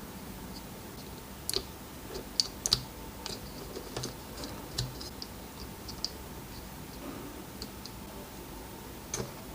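Irregular small clicks and taps of a cordless drill's parts being handled and set down, with a cluster of sharper clicks about two and a half seconds in.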